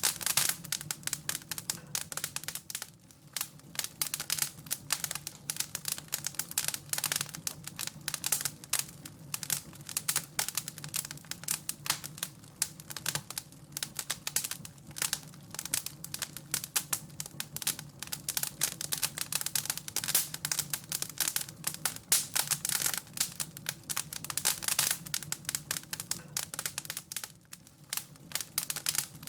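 Wood fire crackling in a fireplace: dense, irregular small pops and snaps throughout, over a low steady hum.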